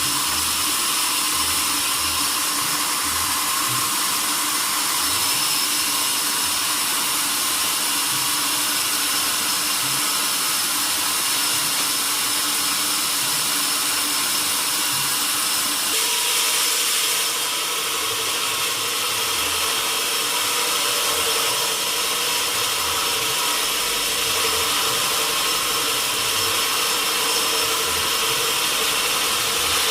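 Sawmill machinery running steadily while processing mahogany logs: a continuous mechanical hiss with a steady hum. Its tone shifts about halfway through, when a new mid-pitched hum comes in.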